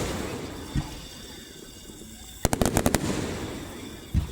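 Fireworks display: a rapid string of about eight sharp cracks about two and a half seconds in, with single low booms near the start and just before the end.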